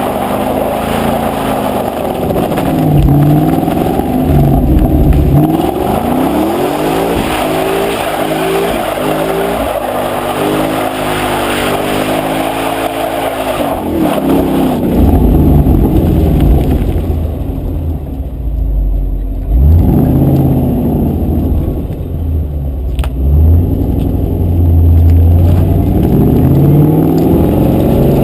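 2011 Ford Mustang 5.0 V8 engine revving and accelerating, its pitch climbing and dropping again and again, with a heavy low rumble in the second half.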